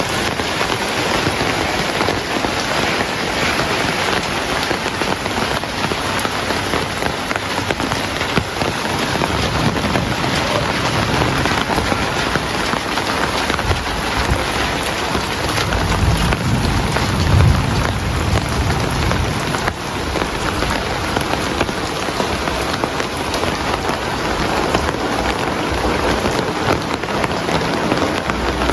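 Heavy rain pouring steadily onto surfaces, with a low rumble of thunder swelling and fading a little past the middle.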